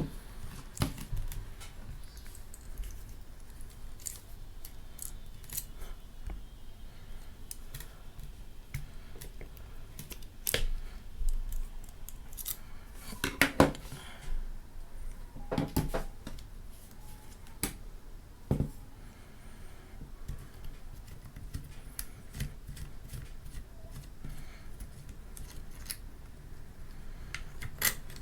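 Small hard parts being handled: irregular sharp clicks, taps and light rattles, clustering in short bursts about a third of the way in and around the middle.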